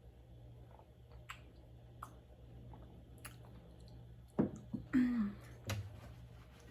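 A person chewing food close to the microphone, with soft wet mouth clicks, getting louder about four and a half seconds in, where a short hummed "mm" is heard, followed by a sharp click.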